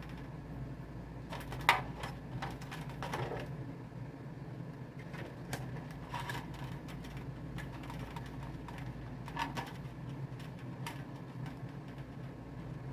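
Scattered light clicks and rattles of plastic zip ties being handled and threaded onto a metal wire frame, the sharpest click a little under two seconds in, over a steady low hum.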